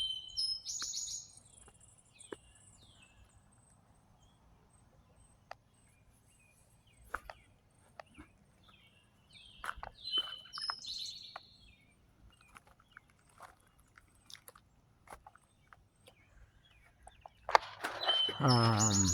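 A songbird chirping in short, quick phrases of high notes near the start and again about ten seconds in, with a few faint clicks in between.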